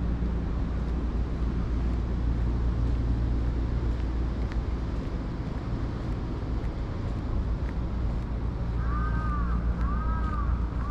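Steady low rumble of street traffic with wind on the microphone. About nine seconds in, a repeating high chirp starts, about once a second, each chirp rising and falling in pitch.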